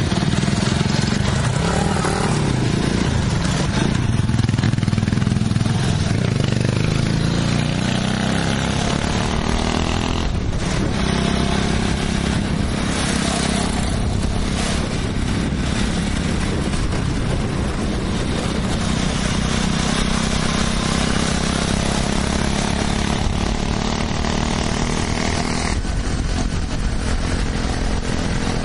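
Honda Cub four-stroke flat-single motorcycle engine running steadily.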